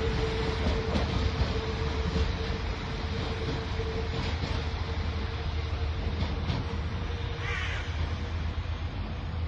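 Class 195 diesel multiple unit pulling out of the station: a steady low engine rumble with a steady whine over it, the whine stopping about three-quarters of the way through, and a brief higher sound at about the same time.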